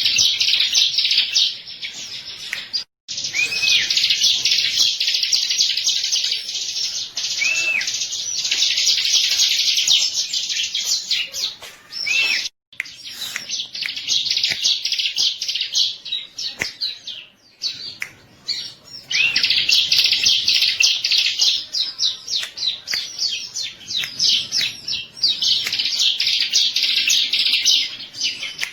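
Bar-winged prinia (ciblek) singing a rapid, high-pitched chattering song in long bursts, with a quieter stretch near the middle. The sound cuts out completely for a moment twice.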